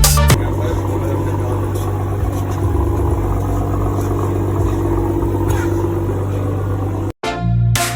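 A car engine running steadily at idle, a low even hum with no revving, cut off abruptly near the end.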